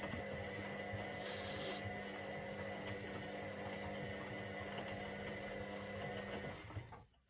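Indesit IWC 71252 washing machine running with a steady motor hum; the hum cuts off about six and a half seconds in and the remaining sound dies away within half a second.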